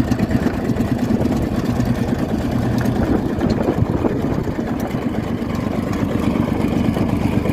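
Field Marshall tractor's single-cylinder two-stroke diesel engine idling steadily.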